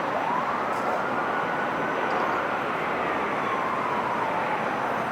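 Steady jet engine noise from a Boeing 787-9 airliner arriving to land. A faint siren wails through it, slowly rising to a peak about two seconds in and falling again.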